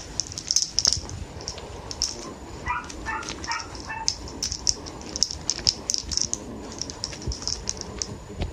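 A toy ball being batted and rolled about, giving repeated short high rattles and light clicks. About three seconds in come four short, high-pitched cries from a small animal.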